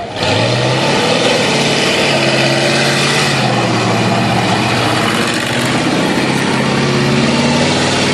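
Monster truck engine opening up suddenly and running loud and steady, its pitch rising a little in the first second and then holding.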